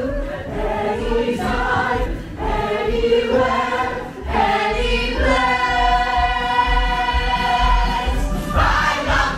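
Musical theatre ensemble singing a show number with accompaniment, several voices together, holding one long chord for about three seconds in the middle.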